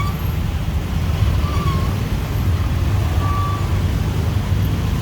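Dense city street traffic: a steady rumble of motorbike and car engines passing close by, with a few short, thin beeps over it.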